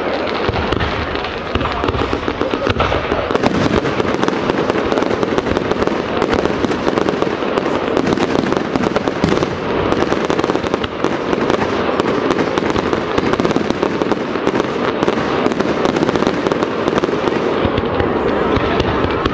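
Aerial fireworks display: bursting shells give dense, continuous rapid popping and crackling, with heavier bangs mixed in.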